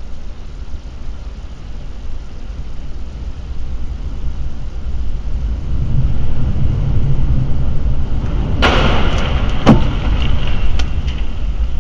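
Car driving with a steady low road and wind rumble that grows louder, then a plastic object smashing: a loud crash about eight and a half seconds in, a sharp crack a second later, and a few small clatters of plastic fragments.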